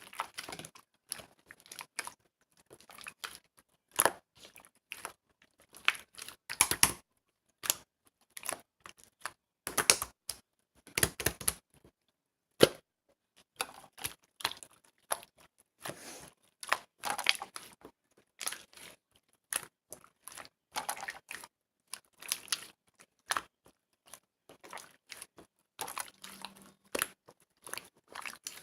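Clear slime being squeezed and pressed by hand, making irregular sticky clicks, pops and crackles with short quiet gaps between them.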